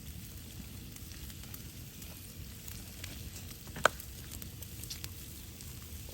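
Bacon frying over a campfire: a steady sizzle with scattered small crackles, and one sharp pop just under four seconds in.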